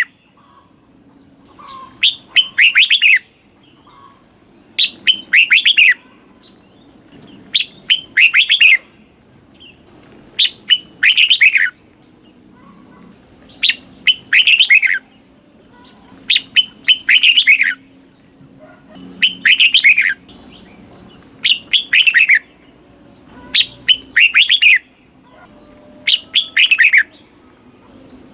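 Red-whiskered bulbul singing, repeating a short, fast phrase of several clear, downward-sweeping whistled notes about every three seconds.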